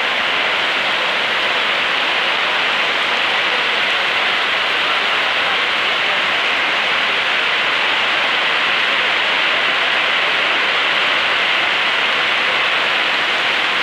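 Heavy rain pouring steadily, a loud, even hiss with no breaks.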